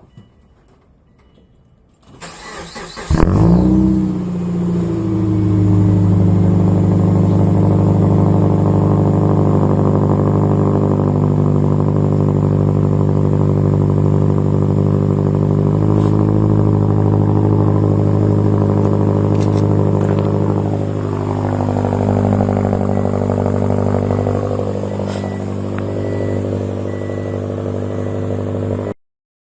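Muffler-deleted 2007 Subaru Impreza 2.5i's 2.5-litre flat-four being cranked by the starter and catching about three seconds in with a brief flare in revs. It then settles into a steady, loud, unmuffled idle.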